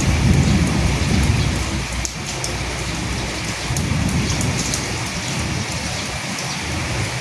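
Steady rain falling, an even hiss of water with many sharp drop ticks, and slow low swells about a second in and again around four seconds in.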